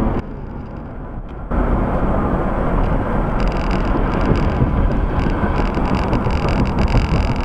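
Steady road and wind noise of a car driving, as picked up by a dashcam, starting abruptly about a second and a half in after a short quieter stretch.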